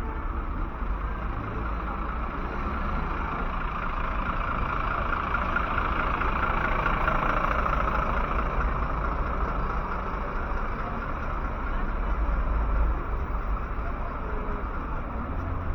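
Street traffic: road vehicles running, with one passing close and growing louder to a peak about seven seconds in before fading, over a steady low rumble.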